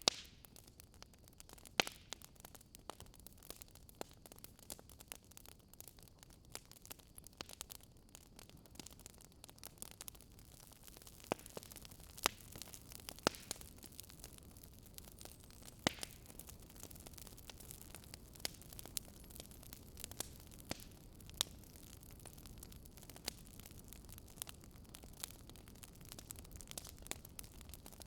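Wood fire crackling in a fireplace: irregular sharp pops and snaps, a few of them louder, over a faint steady hiss of the burning logs.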